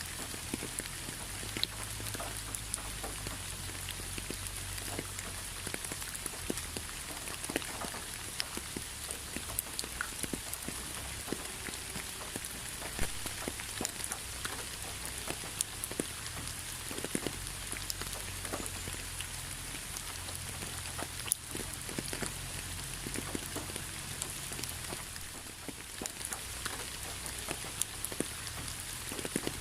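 Steady rain falling, with many individual drops ticking and pattering on a surface among a constant wash of rain noise and a low rumble underneath.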